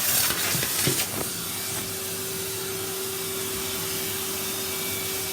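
Vacuum cleaner running steadily with a constant hum, after a couple of short knocks in the first second or so.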